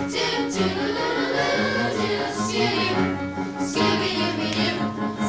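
A group of voices singing a song together in chorus over musical accompaniment.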